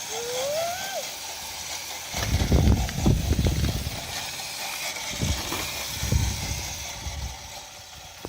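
Low, irregular rumbling surges, loudest about two to four seconds in and again around five to seven seconds, after a short rising whine in the first second.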